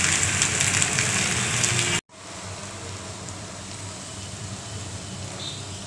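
Potato sticks sizzling as they fry in hot mustard oil in a kadai, with fine crackling. About two seconds in it cuts off, and a quieter, steady sizzle follows.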